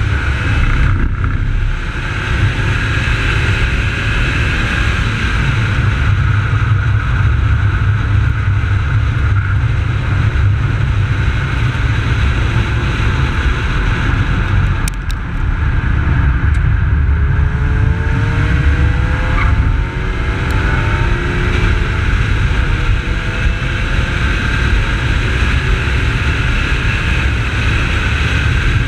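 Holden VY Commodore's 3.8-litre V6 running hard at track speed, heard over heavy wind and road rumble. The engine note rises under acceleration past the middle, with brief dips where the throttle lifts or a gear changes.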